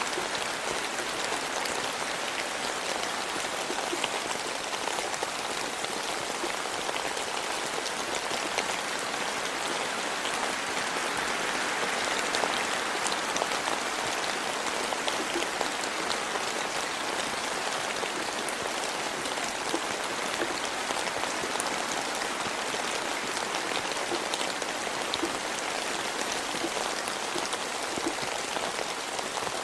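Steady rain, with many nearby drops striking as short, sharp ticks.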